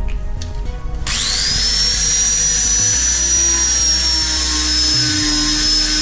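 Grinder with a 3M Clean and Strip disc starting about a second in: its whine rises quickly to a steady high pitch as it strips paint off a dented steel body panel.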